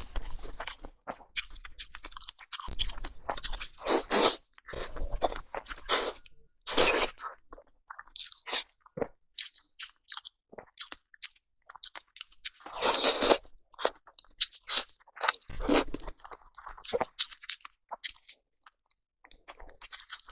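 A person chewing and biting crunchy food close to the microphone, in irregular bursts of crunches with short pauses between bites.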